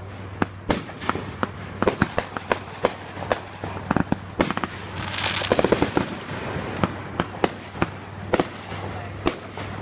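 Fireworks going off: a rapid, irregular string of sharp bangs, with a denser crackling stretch about five seconds in.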